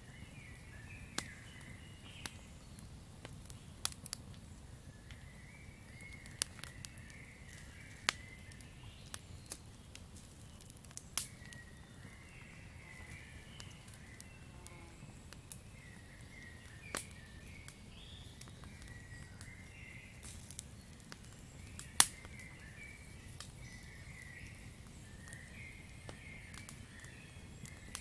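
Campfire crackling: irregular sharp pops and snaps over a low steady rumble, the loudest pop about 22 seconds in, with faint high chirping in the background.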